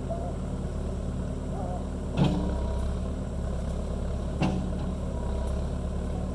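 John Deere 450B crawler's engine running steadily under work, with two sharp knocks about two seconds apart as the machine handles debris.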